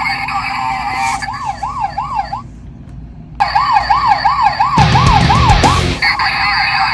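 Toy police car's electronic siren in a fast yelp, rising and falling about three times a second, cutting out for about a second midway and then starting again. A loud rushing noise breaks in briefly about five seconds in.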